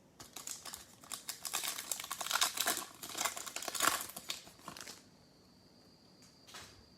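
Foil trading-card pack wrapper crinkling and tearing as it is opened, a dense run of crackles that stops about five seconds in, followed by one brief soft rustle.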